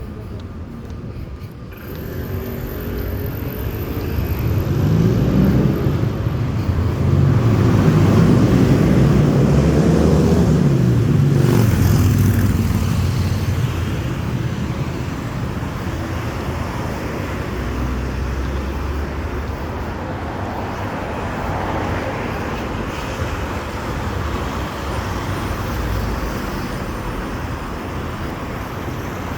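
Motor vehicle engine and road noise. It grows louder while the engine tones shift in pitch, peaks about ten seconds in, then eases to a steady rumble.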